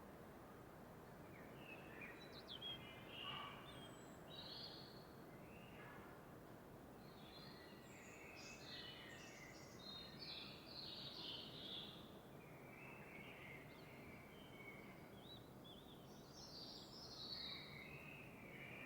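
Songbirds singing faintly in a run of short chirping phrases over a steady soft background hiss.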